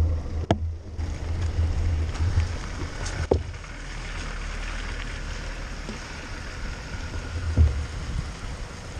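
Steady rushing of air over the camera microphone on a mountain-bike descent, with a heavy low buffeting that dies away about half a second in, and a few sharp knocks and a low thump from the bike going over the track.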